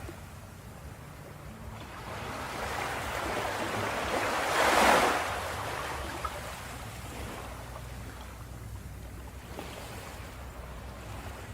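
Ocean waves on a beach: one wave builds over a few seconds, breaks loudly about five seconds in, and washes back up the shore as a fading hiss, over a steady low surf rumble.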